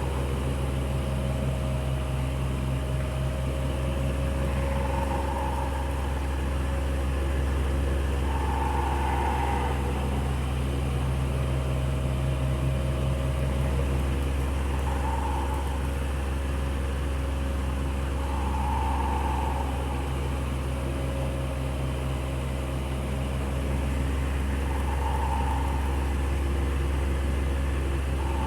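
Electric fan running steadily, with a deep motor hum and airflow noise, and a soft swell in its sound every four to six seconds.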